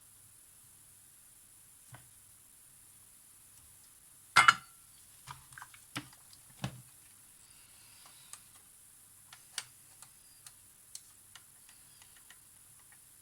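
Small hard objects being handled and set down on a work surface: scattered light clicks and taps, with one sharp clatter about four seconds in.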